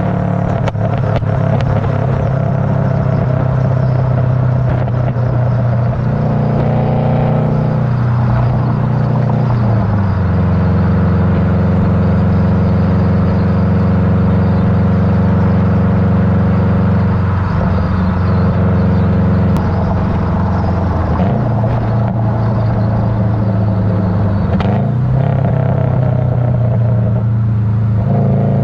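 Subaru Legacy GT's turbocharged flat-four running through a catless up-pipe, Cobb catted downpipe and aftermarket axle-back with 5-inch mufflers. The exhaust note is continuous and loud, with engine speed stepping up around 6 and 10 seconds in, holding steady, then dropping back down.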